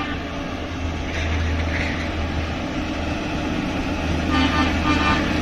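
Train passing with a steady low rumble; a brief high tone sounds about four seconds in.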